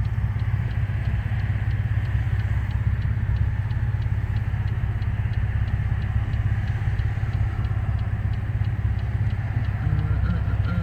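Pontiac Grand Prix GT's V6 with a catless, tuned exhaust droning steadily while cruising, with a deep, even exhaust note and road noise.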